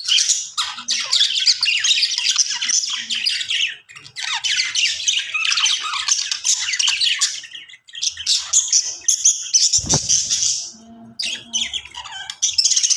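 Budgies chirping and warbling in long, fast runs of high chatter with a few brief pauses. A short low thump comes about ten seconds in.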